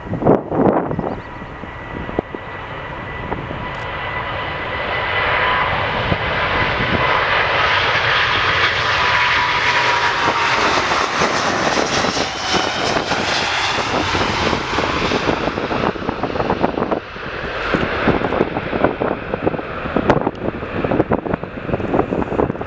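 Departing jet airliner's engines passing by: the sound builds over several seconds, peaks around the middle with a whine that drops slightly in pitch, then eases off. Wind buffets the microphone at the start and again near the end.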